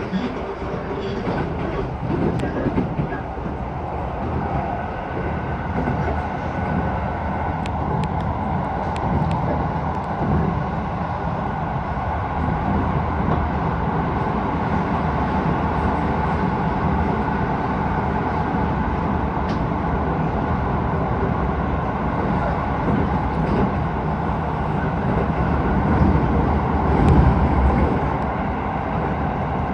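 Keisei 3000 series electric train running at speed, heard from inside the car: a steady rumble of wheels on rails with a few faint clicks.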